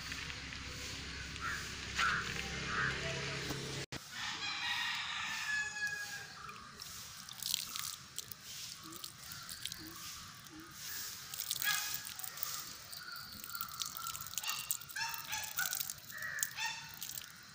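Birds calling repeatedly outdoors, many short calls that come and go. A low hum underneath stops abruptly about four seconds in.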